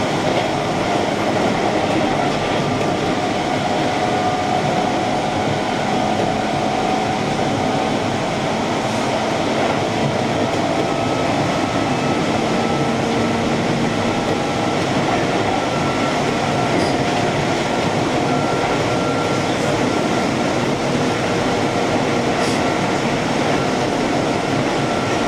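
Keihan electric commuter train running between stations, heard from on board: a steady rumble of wheels on rail and running noise with faint, steady whining tones.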